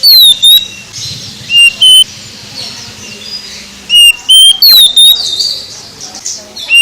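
Oriental magpie-robin (kacer) singing loud, clear whistled phrases: short rising whistles alternate with downward-slurred notes, repeated in bursts with short gaps.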